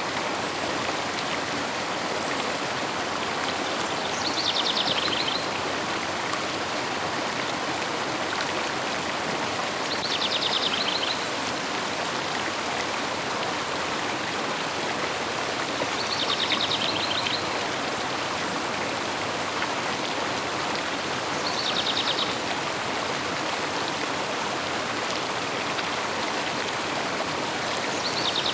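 River water flowing steadily, with a bird's short high trill repeating about every six seconds.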